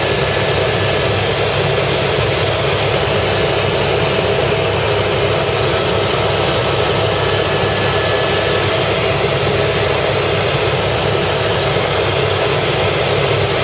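Helicopter engine and rotor noise heard from on board in flight: a loud, steady rumble with a faint constant whine over it.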